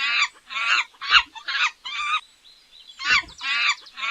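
Dolphin calling: a rapid run of short, wavering, squeaky calls, in two bouts with a pause of about a second between them.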